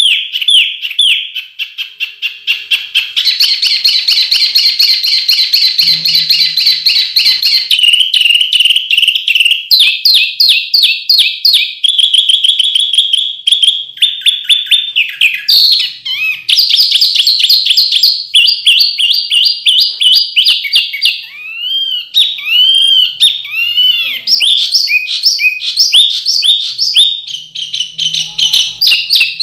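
Songbird masteran track: a bird singing a dense, unbroken run of sharp, high, rapid-fire phrases and trills ('tembakan'), switching to a new repeated phrase every second or few, with some arched slurred notes partway through.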